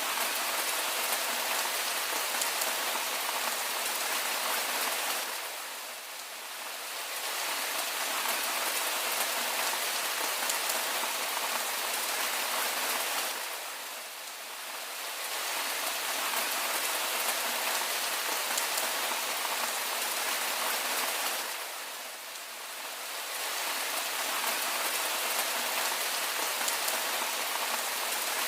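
Steady rain falling, a dense even patter of drops that dips in level three times, about every eight seconds.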